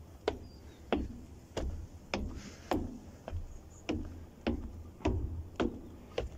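Footsteps at a steady walking pace, each step a sharp click, a little under two a second, with a low rumble beneath.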